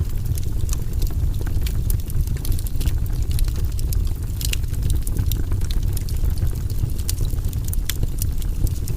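Wood fire burning in a fireplace: a steady low rumble with frequent sharp crackles and pops scattered irregularly throughout.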